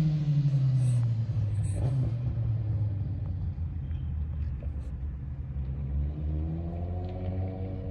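Motorcycle engines in the street: one falls in pitch and fades over the first couple of seconds, a low engine rumble carries on, and another rises in pitch near the end as it speeds up.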